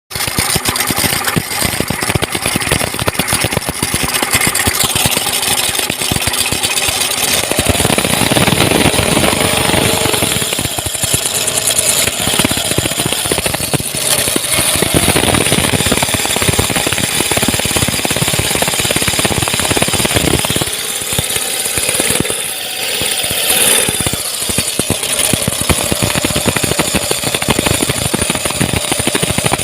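Car engine running with a rapid, dense clatter.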